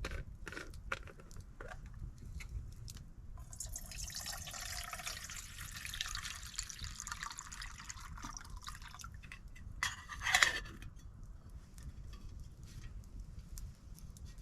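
Campfire burning, with scattered crackles and pops, then a stretch of steady hissing and sizzling from about four to nine seconds in, and a sharper, louder burst near the ten-second mark.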